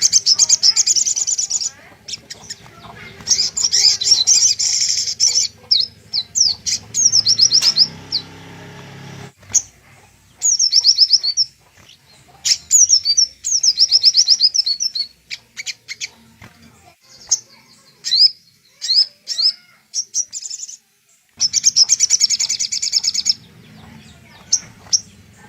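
Sogok ontong (little spiderhunter) calling: bursts of rapid, high-pitched chattering chirps and trills, repeated again and again with short pauses between.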